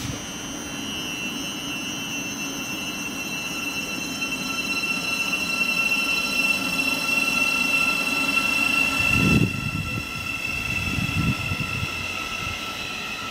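An electric multiple-unit passenger train runs past close by: a high whine that sinks slowly in pitch sits over the rumble of its wheels. About nine seconds in there is a heavy burst of low rumbling, and uneven low rumbling follows it.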